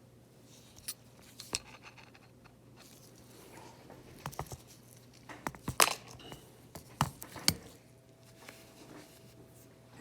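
Small hand repair tools clicking and tapping against an opened iPad and the work surface: scattered sharp ticks, with the loudest cluster about halfway through and two more a second or so later.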